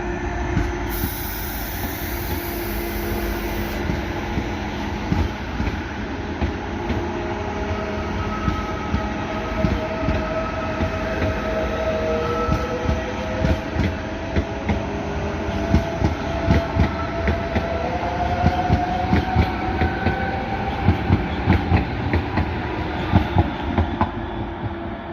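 Train running through a station: a steady rumble with drawn-out, slowly gliding squealing tones, and quick clacks of wheels over rail joints that come thicker in the second half.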